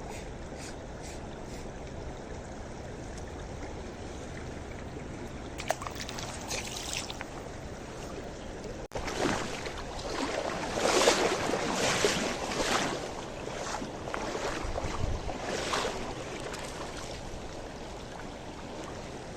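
Mountain river water rushing steadily over stones. About halfway through comes a run of louder, uneven swishes over the rush for several seconds, then it settles back to the steady flow.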